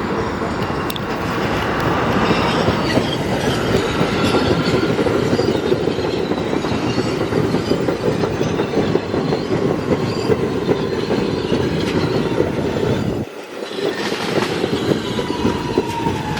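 Staten Island Railway train running through a station, with a steady loud rumble throughout and a faint falling whine near the end.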